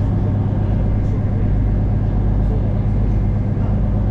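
Steady low rumble and hum of a passenger train running along the track, heard from inside the carriage.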